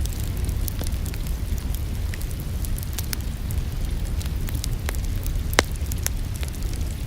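Wood fire in a fireplace crackling, with scattered sharp snaps and one louder pop about five and a half seconds in, over a steady low rumble and the hiss of rain.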